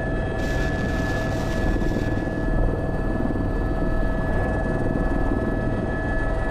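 Airbus H125 helicopter heard from the cockpit: the steady whine of its Arriel turboshaft over the thrum of the main rotor. A brief hiss comes in about half a second in and fades by about two seconds.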